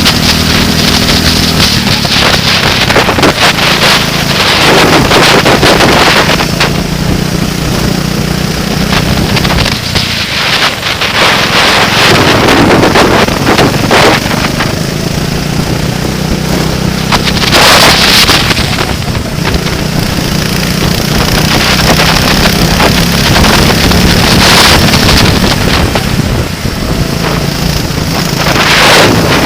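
A vehicle engine running hard on a race track, its pitch rising and falling in steps as it changes speed, with heavy wind buffeting and rushing on the microphone.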